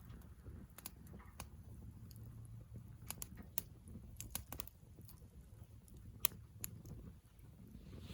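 Wood campfire crackling: irregular sharp pops and snaps over a low steady rumble of the burning fire, the loudest pop about six seconds in.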